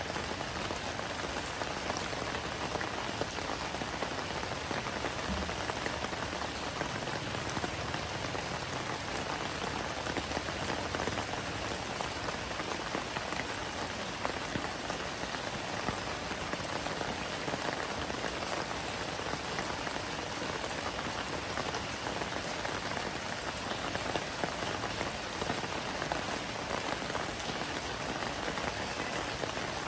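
Steady rain falling on large, broad taro leaves: an even hiss of rain with many small drop impacts, unchanging throughout.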